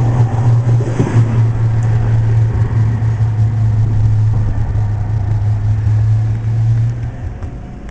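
Tram running with a steady low hum over rolling noise; the hum drops away and the sound fades about seven seconds in.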